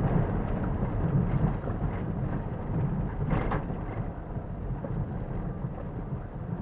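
Car driving along a forest road, picked up by a dashcam: a steady low rumble of engine and tyre noise, with a brief hiss about three and a half seconds in.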